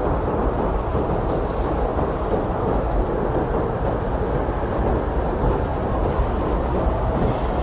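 Strong blizzard wind blowing steadily, a dense, deep rushing rumble with no single gust or blow standing out.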